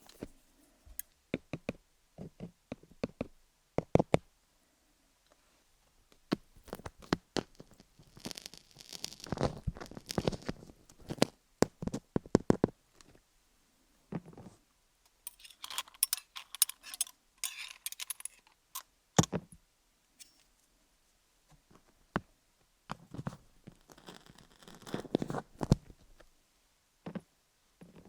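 Wooden picks tapping and scraping over a rhinestone-studded dummy-head microphone: many sharp clicks, broken by stretches of scratchy rubbing about a third of the way in, around the middle, and near the end.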